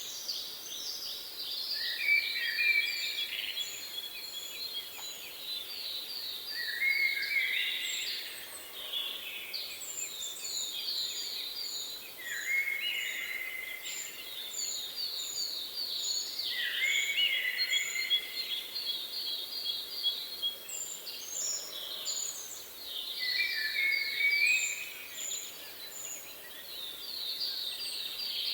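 Several songbirds singing: phrases of quick, high notes recur every few seconds, with runs of thin, very high chirps at an even pace, over a faint hiss.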